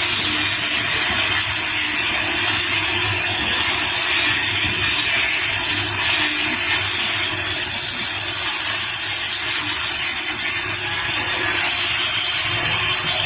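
Woodworking power tool running steadily, a loud, even hiss-like noise of machining wood.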